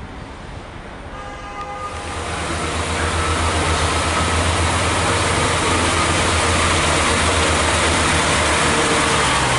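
A Class 142 Pacer diesel multiple unit running into the platform. Its underfloor diesel engines drone low under the wheel and rail noise, which grows loud over the first few seconds and then holds steady. A thin, steady high squeal from the wheels joins in.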